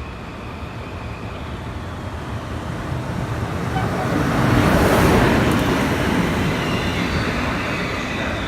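A train passing close by: the noise of its wheels on the rails grows to its loudest about five seconds in and carries on.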